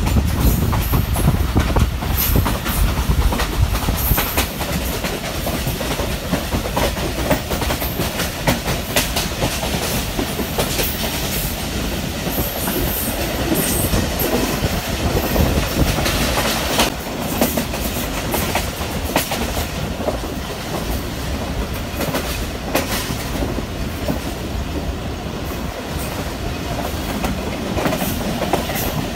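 Rehman Baba Express passenger train running along the line, heard from inside a carriage: a steady rumble of wheels on rails with irregular clicks from the track joints.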